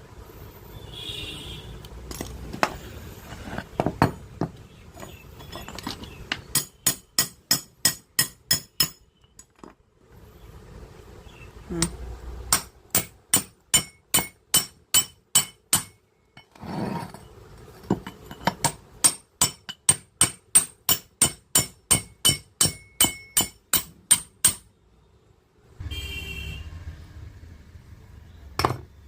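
A hammer striking metal in quick, even blows, about three a second, in three runs with pauses between them.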